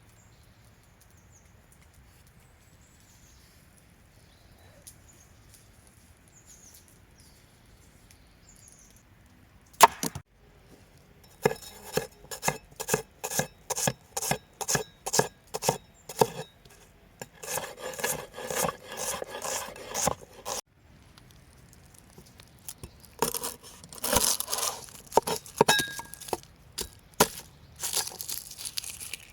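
Faint high chirps, then a single sharp knock about ten seconds in. A run of regular knocks follows, about two a second, then bouts of scraping and rubbing with more knocks near the end.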